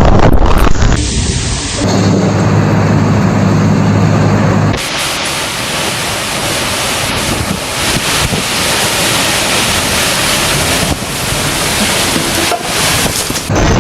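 Heavy storm rain and wind noise on the microphone, an even hiss across the whole range. Between about two and five seconds in, a steady low drone with several pitches runs under it, and the sound changes abruptly at several cuts.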